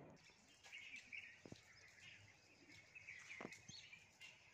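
Near silence with faint bird chirps: scattered short warbling calls and a couple of light clicks.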